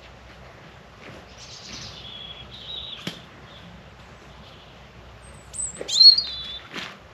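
Small birds chirping in short high calls, loudest in a quick burst about six seconds in. Two sharp knocks are heard, about three seconds in and near the end.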